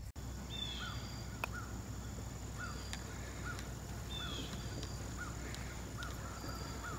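Birds chirping and calling: a short note repeated every half second or so, with two longer falling whistles, over a steady low outdoor rumble. A single sharp click sounds about a second and a half in.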